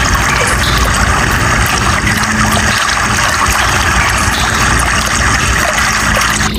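A stream of flowing water, heard as a steady, even rush.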